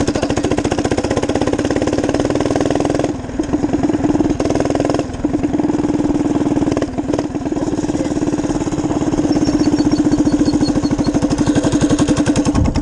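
Minibike's small engine running under throttle, its firing pulses steady and even. The engine note drops briefly three times, about 3, 5 and 7 seconds in, then picks back up.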